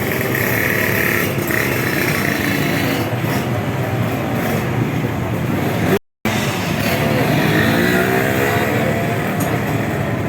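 125cc underbone race motorcycle engines running, with one engine's pitch climbing over about two seconds as it revs up. The sound cuts out briefly about six seconds in.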